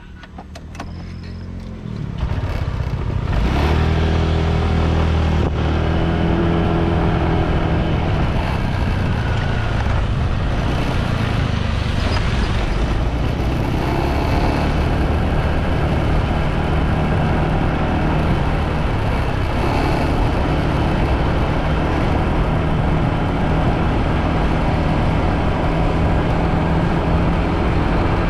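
Motorbike engine picking up speed about two to three seconds in, its pitch climbing, then running steadily at cruising speed with a constant rushing noise over it.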